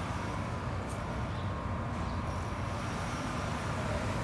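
Comfortmaker packaged gas unit running in heat mode: a steady low mechanical hum with a faint constant whine above it.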